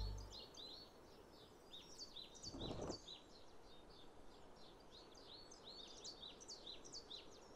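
Faint birdsong: quick, repeated high chirps, after the last of the music fades out in the first half second. A short rustle of noise comes about two and a half seconds in.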